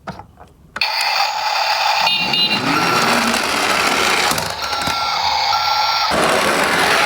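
Truck reversing beeps, a single high tone repeating a little faster than once a second, over a loud, steady rushing noise. The beeps start about two and a half seconds in.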